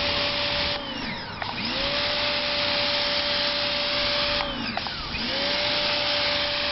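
Ryobi 1600 psi electric pressure washer running and spraying, a steady motor hum under a hiss of water. Twice the motor winds down and the spray stops, then it spins back up within about a second, as the spray-gun trigger is let go and squeezed again.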